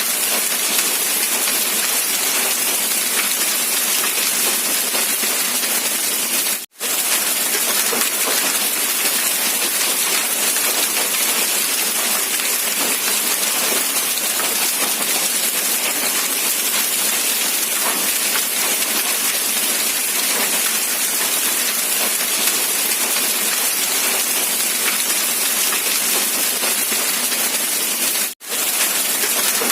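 Steady rain, a dense even hiss of falling drops, cutting out for a split second twice.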